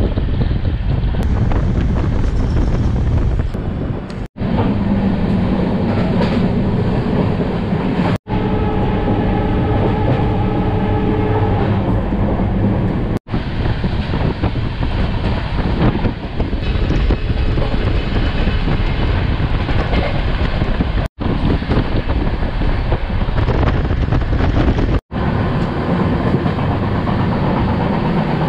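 Avadh Assam Express running at speed, heard from an open coach door: a steady rumble of wheels clattering over the rails. A few steady tones sound for a few seconds about eight seconds in. The sound drops out briefly several times where shots are cut together.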